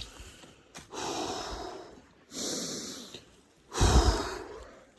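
A man breathing hard through a hike: three long, noisy breaths, the last the loudest.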